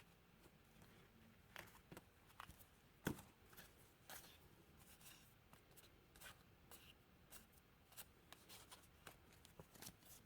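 Faint rustling and scattered small clicks of paper and thread being handled, with one sharper tap about three seconds in; the sewing machine is not running.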